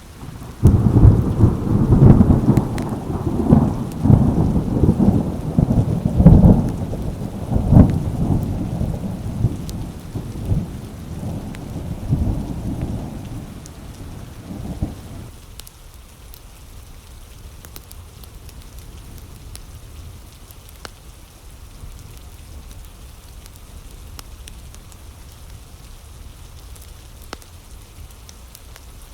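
A thunderclap breaks about a second in and rolls on in repeated low rumbles for about a quarter of a minute, fading out, over steady rain. After that only the steady rain is left.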